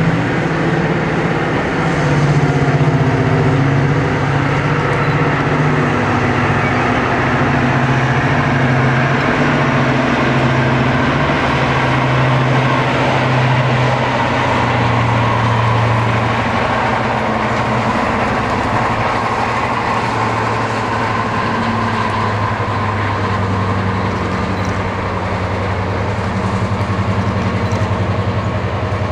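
Diesel locomotive engine running with a steady low note, its pitch shifting slightly about halfway through.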